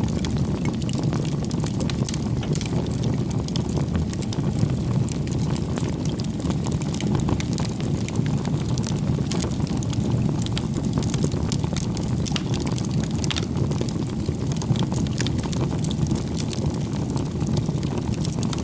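Wood campfire burning: a steady low rush of flame with many small scattered crackles.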